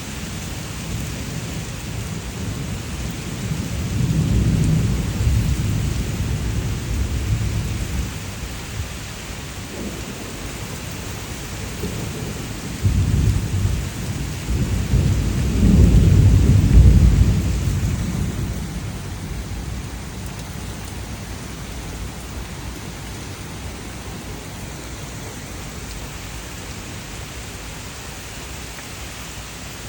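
Steady rain from a thunderstorm, with two long, deep rolls of thunder: one about four seconds in, and a louder one from about thirteen seconds in that peaks and then fades away.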